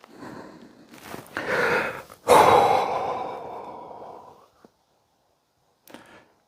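A single shot from a Walther PDP pistol about two seconds in: a sudden loud report that rings off over about two seconds, after quieter handling sounds of the draw.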